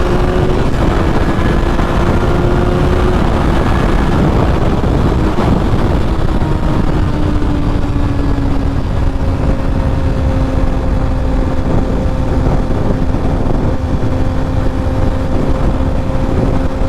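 Motorcycle engine running at a steady cruise under heavy wind noise. Its pitch eases down about seven seconds in as the rider backs off, then holds steady.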